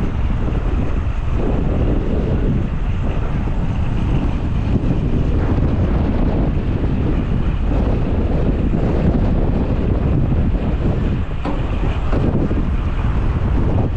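Strong wind buffeting a GoPro's microphone through its wind guard: a loud, low rush that swells and eases with the gusts, from a storm of about 45 mph sustained winds gusting toward 70 mph.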